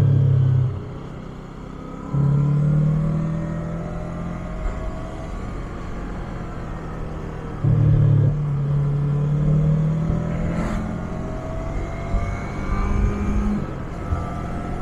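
Yamaha MT-25's 249 cc parallel-twin engine through its stock exhaust, pulling under throttle while riding. The engine note climbs gradually and then drops back, as at gear changes, and it surges louder three times: at the start, about two seconds in, and about eight seconds in. Wind and road noise run underneath.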